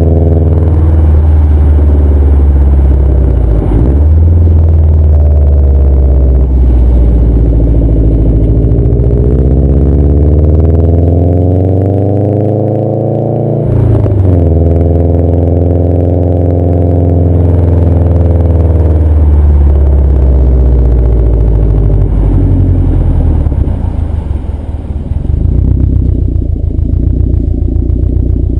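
2011 Subaru WRX's turbocharged 2.5-litre flat-four running through a CNT cat-back exhaust, the revs rising and falling. The pitch climbs for several seconds and drops suddenly with a click about 14 seconds in. It settles to a steadier, lower note near the end.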